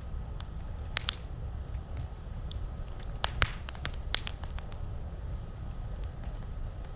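Wood campfire crackling, with irregular sharp pops and snaps; the loudest pop comes about three and a half seconds in. A steady low rumble runs underneath.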